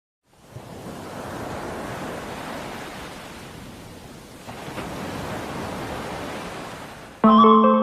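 Rushing noise of sea surf and wind, swelling, easing off and swelling again.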